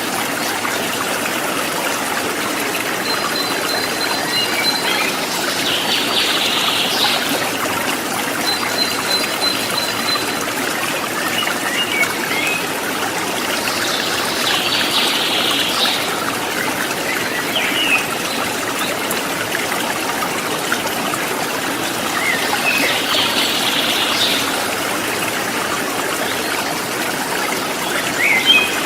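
Water of a rocky river flowing and trickling steadily over stones. Short high bird calls and chirps come every few seconds over it.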